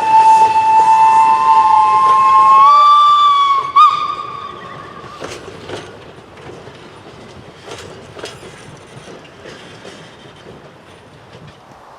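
Steam locomotive whistle blowing one long blast that steps up slightly in pitch and cuts off sharply about four seconds in, followed by quieter scattered clanks and knocks.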